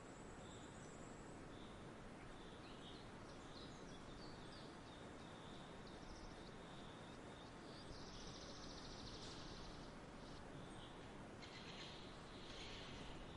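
Faint outdoor nature ambience: a steady soft background hiss with small birds chirping, the chirping growing busier about eight seconds in and again near the end.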